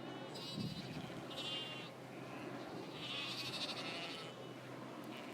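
Sheep bleating in the field: three high, wavering calls, the third and longest starting about three seconds in.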